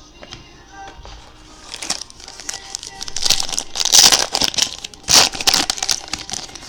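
Plastic wrapping of a trading-card pack being crinkled and torn open in a series of irregular rasps, loudest about four and five seconds in.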